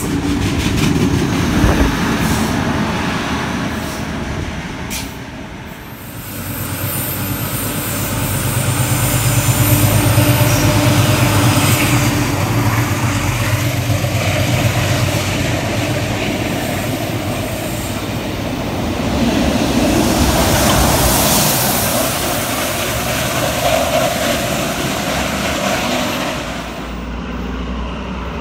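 A train running on the rails, a steady rumble with rail noise that dips and then swells again from about eight seconds in.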